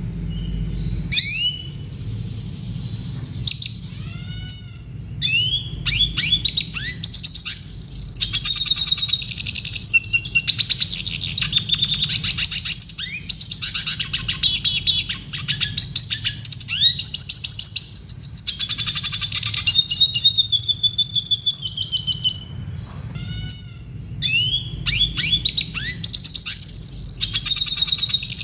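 Red siskin singing: long runs of fast twittering trills mixed with short rising and falling call notes, with a brief pause a little after the middle. A steady low hum runs underneath.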